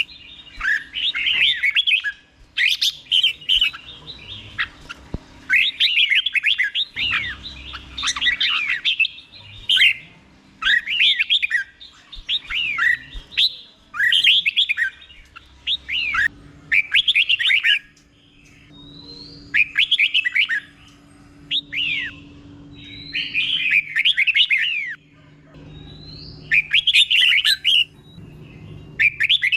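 Red-whiskered bulbul singing: short, fast phrases of sliding whistled notes, each about a second long, repeated over and over with brief pauses between them.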